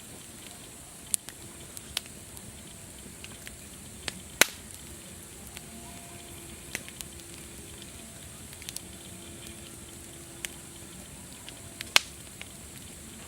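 Wood fire crackling: irregular sharp pops and snaps over a steady hiss, with the two loudest pops about four and a half seconds in and near the end.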